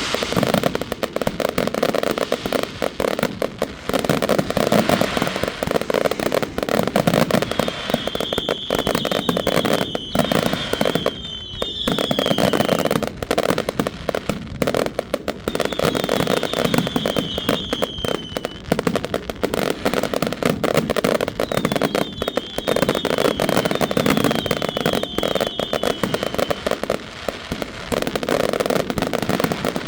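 Many fireworks going off without a break in dense, rapid crackling and banging. Several runs of short falling whistles sound over the bangs.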